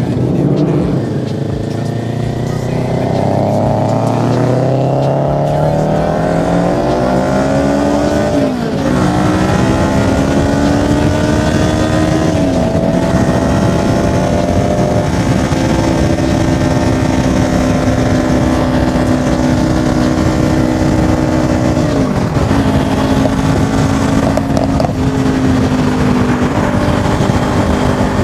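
Kawasaki Ninja 400 parallel-twin engine accelerating through the gears: the revs climb for several seconds, drop sharply at an upshift, then a few more upshifts follow before the engine settles into a steady cruise.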